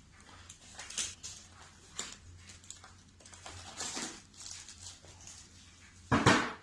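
Packaging rustling and scuffing as parts are handled and lifted out of a cardboard box, in short scattered bursts, with one heavy thump about six seconds in as something is set down.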